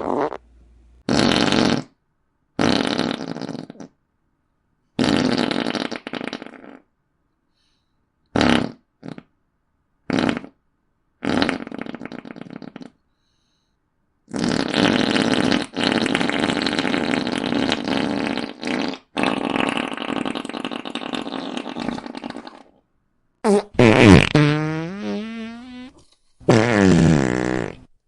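A run of fart sound effects, about ten in a row with dead silence between them. Most are short. One in the middle is drawn out for about eight seconds, and one near the end has a wavering pitch.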